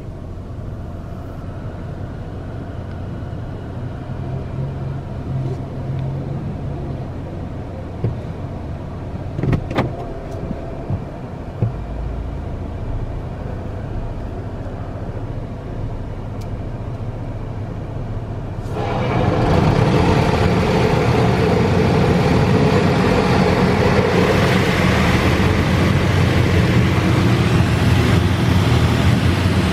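Touchless LaserWash automatic car wash: a steady low hum with a few short knocks about halfway through, then, a little past halfway, a loud, even rush of high-pressure water spray starts suddenly and keeps going.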